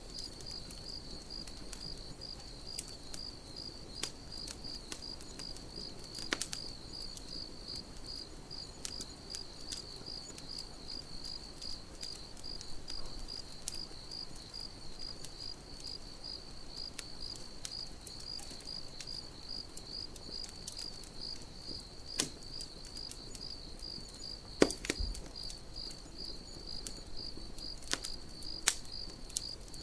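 Crickets chirping in a steady, even pulse, over the scattered crackles and pops of a wood campfire, with a few sharper pops, the loudest near the end.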